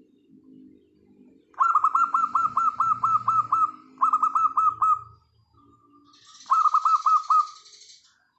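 Wild zebra doves cooing softly, overlaid by another bird's loud, rapid runs of repeated chirps, about eight a second, in three bursts.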